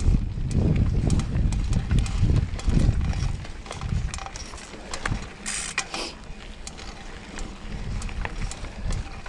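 A mountain bike rolling over rough trail, its frame and drivetrain clicking and rattling over roots and rocks. Wind buffets the microphone heavily for the first three seconds, then eases. A short hiss comes a little past halfway.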